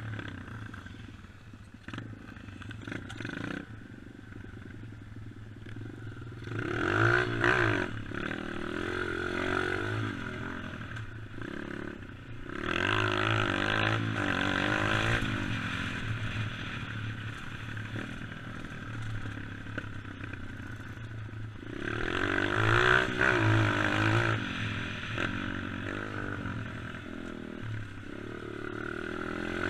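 Dirt bike engine being ridden, surging up in revs three times and easing off in between, with rattling and clatter from the bike.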